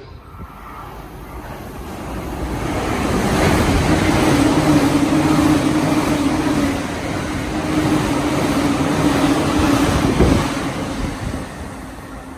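An electric train passing through the station. It builds to a loud rushing rumble with a steady low hum, gives one sharp knock near the end, and then fades away.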